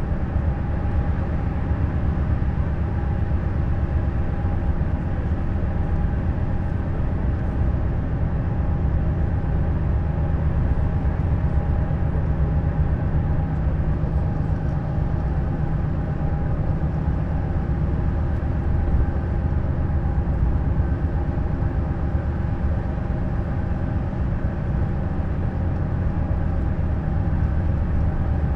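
Neoplan Skyliner N 1122/3C double-decker coach driving at a steady pace: a continuous engine drone and road rumble with a steady whine, unchanging throughout.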